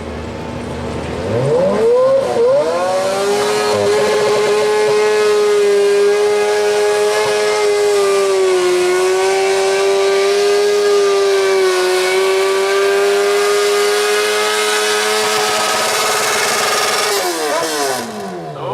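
Modified lawn tractor's Kawasaki motorcycle engine at full throttle under pulling load: the revs climb over the first couple of seconds, hold a high steady note with slight dips, then drop off sharply near the end as the pull stops. The announcer hears it as the engine skipping a couple of beats.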